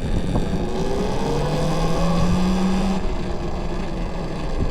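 Talaria XXX electric dirt bike's motor whining and rising in pitch as it accelerates, cutting off about three seconds in when the throttle is let off. Under it runs a steady rumble of wind on the chest-mounted microphone.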